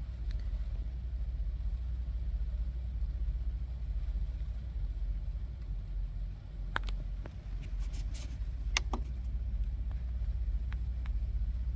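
Steady low rumble, like engines idling, with a few sharp clicks and taps about two-thirds of the way through.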